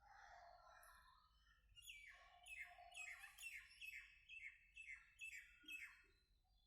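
Parrots calling, faint: a softer call at first, then a run of about ten quick calls, each falling in pitch, about two a second.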